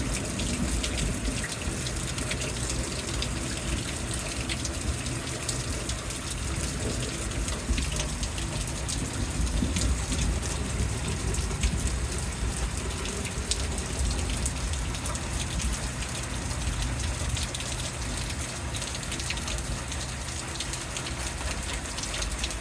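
Heavy rain pouring steadily, a constant rush of falling and running water with many small drop ticks throughout.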